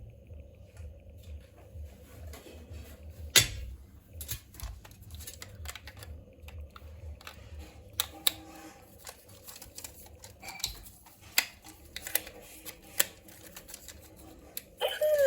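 Scattered light clicks and taps at irregular intervals over a faint low rumble, with one sharper knock about three and a half seconds in. Music starts just before the end.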